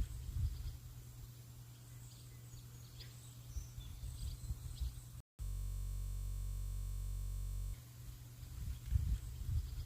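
Outdoor ambience of birds chirping faintly over an uneven low rumble. A little over halfway through it cuts out briefly, and a steady synthesizer drone plays for about two seconds before the ambience returns.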